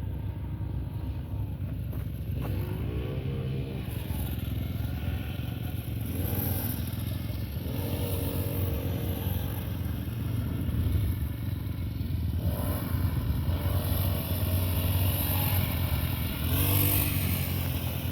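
Dirt bike engines running on a motocross track, revving up and down several times over a steady low rumble.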